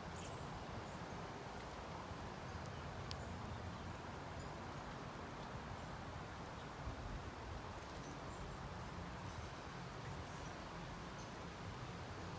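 Steady outdoor background hiss and low rumble, with faint, scattered high chirps and small clicks from birds at a feeder.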